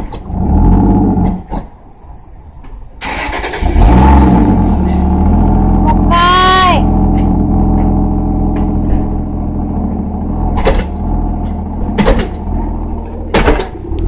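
Toyota JZX100's straight-six engine running, dipping, then revved about three seconds in and settling back to a steady run. A few sharp knocks come near the end.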